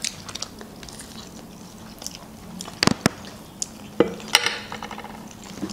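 Chewing and biting of soft chocolate-covered waffles, with a few sharp clicks of metal forks against plates around the middle.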